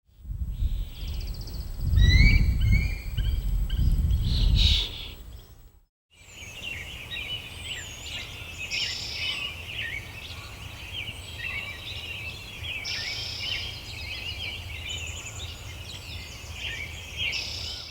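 Many birds calling and singing together in short chirps and trills. A low rumble lies under the first few seconds; the sound cuts out briefly about six seconds in, then a denser chorus of bird calls carries on.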